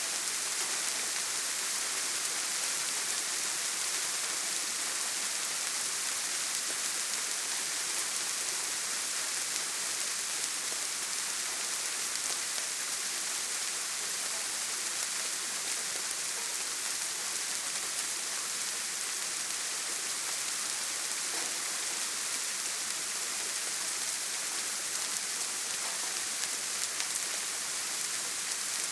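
Steady rain, an even hiss with fine drop ticks and no thunder.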